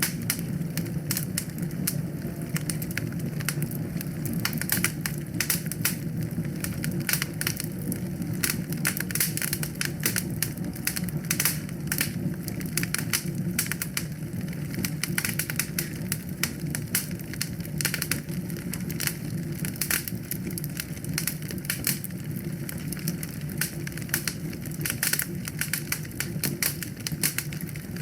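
Wood fire burning in a fireplace, crackling with many irregular sharp pops over a steady low noise of the flames.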